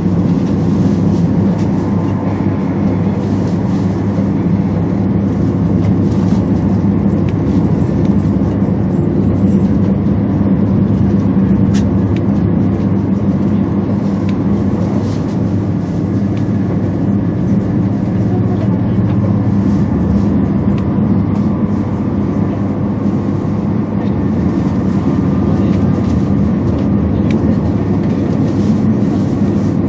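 Steady rumble and hiss of a 200 series Shinkansen train running at high speed, heard inside the passenger cabin.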